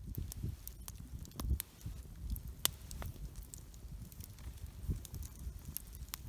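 Wood campfire crackling, with irregular sharp pops scattered through, over low dull knocks and rustling from handling close by.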